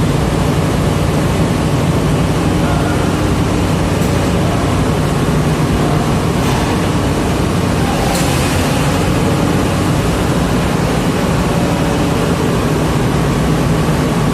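Heavy diesel engine running steadily at a constant speed, with a few brief hissing bursts over it.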